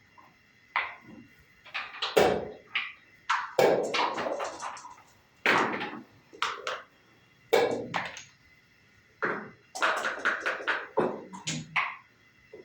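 Dice rattling and bouncing and backgammon checkers clacking as they are moved on a wooden board: a string of sharp knocks and quick clattering runs of clicks with short pauses between.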